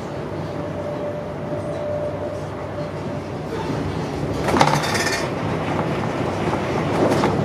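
Steady running rumble of wheels on rail heard inside an HST Mark 3 passenger coach at speed. About halfway through comes a loud rushing surge as another train passes on the adjacent track, with a smaller surge near the end.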